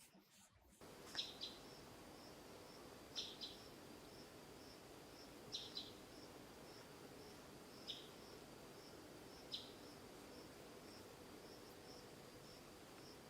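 Faint tropical forest ambience that starts about a second in: insects keep up a steady pulsing high trill, and a short double chirp call repeats five times, about every two seconds.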